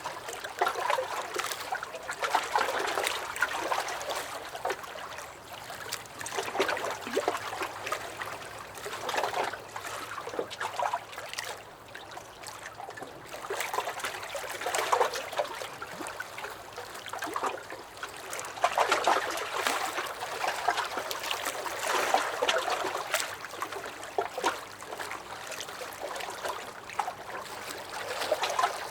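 Small lake waves lapping and splashing against a dock, swelling and easing every few seconds with many small sharp slaps of water.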